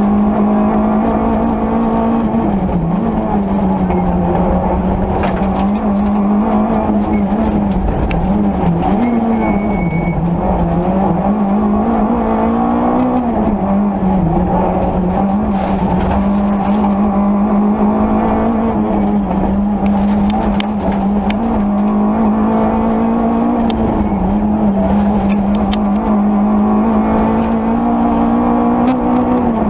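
Peugeot 205 Rallye rally car's engine heard from inside the cabin, held at high revs under load on a stage, its pitch dipping briefly several times where the driver lifts or shifts, then rising again.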